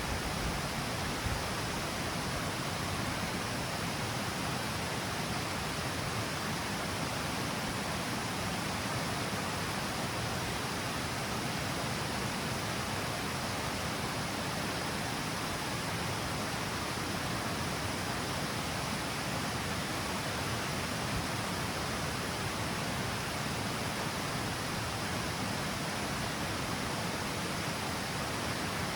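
River water falling over the steps of a small stepped cascade, a steady, even rush of water that does not change.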